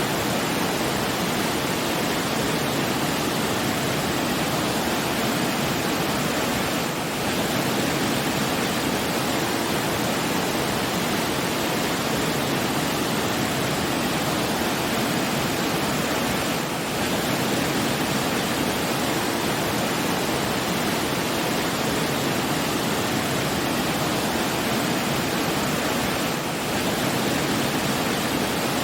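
Steady rushing noise of falling water, like a waterfall, even and unbroken, with a slight brief dip in level about every ten seconds.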